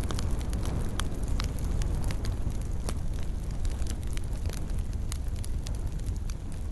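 Fireplace fire burning with a steady deep rumble and frequent irregular sharp crackles and pops.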